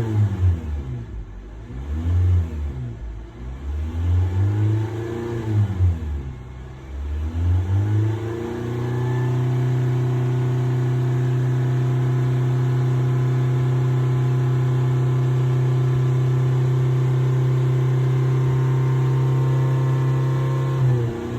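A 2020 Honda Civic's engine being revved: several quick blips up and back down, then held steady at high revs for about twelve seconds before falling back near the end.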